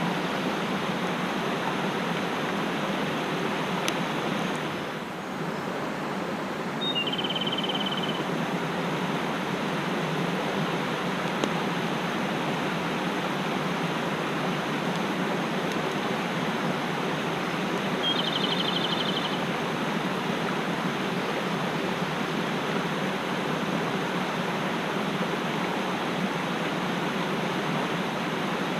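Mountain stream rushing steadily, briefly softer about five seconds in. A small bird gives a short high trill twice, about seven and eighteen seconds in.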